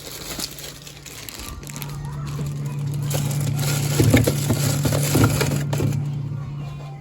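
Plastic bags of frozen fruit crinkling and rustling as they are packed into plastic bins, with a few knocks about four to five seconds in, over a steady low hum.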